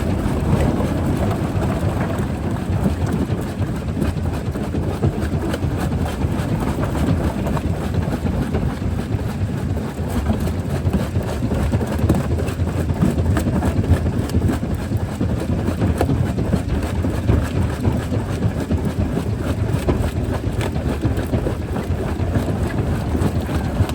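Jaw crusher running with a steady heavy rumble, with scattered sharp cracks and knocks of rock breaking between the jaws.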